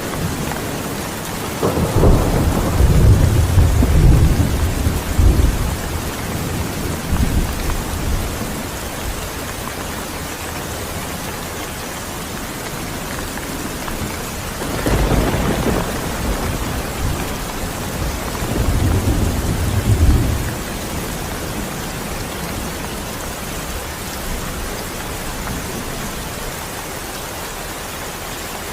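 Steady heavy rain with rolling thunder: a long low rumble about two seconds in that dies away over several seconds, and a second rumble about fifteen seconds in, peaking near twenty seconds.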